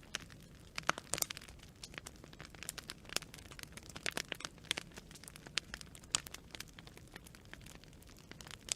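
Campfire of burning branches crackling: irregular sharp pops and snaps, several a second, over a low steady rumble.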